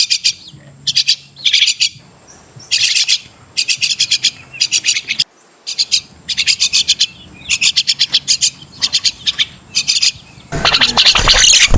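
Crested myna calling: short bursts of rapid, scratchy chattering notes, repeated about once a second. About ten seconds in, a louder, denser stretch of calls begins.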